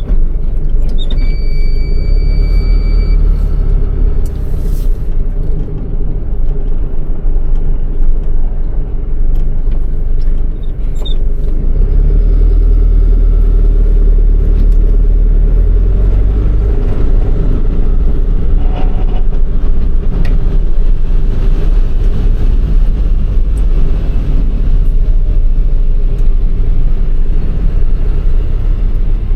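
MAN truck's diesel engine running, a loud steady low rumble that gets heavier about twelve seconds in. A steady beep sounds for about two seconds shortly after the start.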